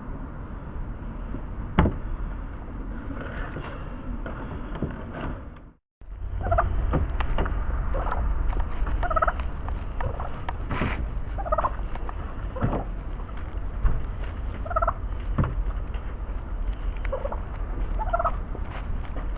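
Short bird calls, often in pairs, repeating every two to three seconds over a steady low rumble. The sound cuts out briefly about six seconds in.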